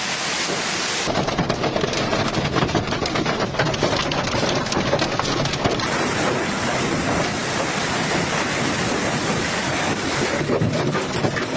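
Heavy storm downpour: a loud, dense patter of drops striking hard surfaces without a break, its character changing abruptly about a second in, around the middle and near the end.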